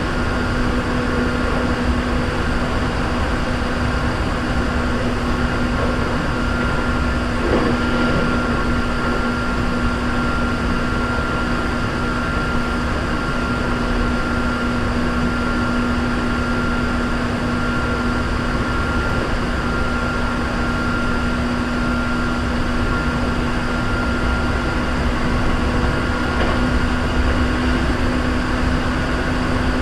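Cabin running noise of a Hankyu 3300 series electric train travelling between stations: a steady rumble with a constant whine held at one pitch, meaning the train is running at an even speed. There is a faint single knock about seven and a half seconds in.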